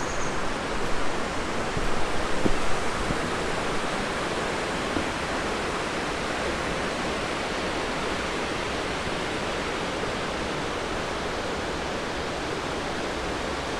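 Steady rush of flowing water, slightly uneven for the first few seconds and then even.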